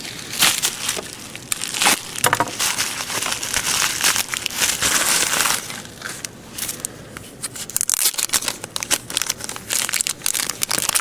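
Mail packaging crinkling and rustling as it is handled and opened, with many small crackles and clicks and a longer continuous rustle a few seconds in.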